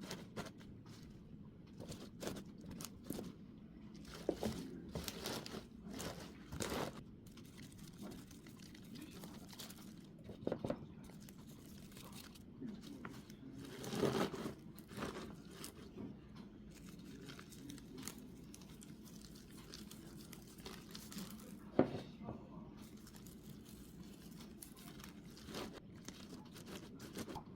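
An animal biting, tearing and crunching leafy vegetables, in irregular bouts of crisp crunches with short pauses and one sharper snap about three-quarters of the way through.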